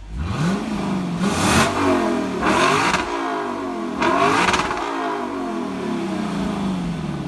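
A car engine revved three times, its pitch climbing and dropping with each blip, then falling back toward idle.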